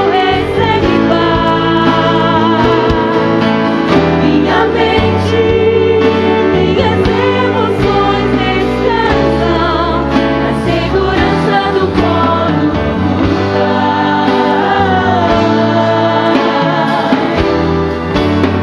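Live gospel worship song: several voices singing with vibrato over a band's sustained bass and keyboard chords.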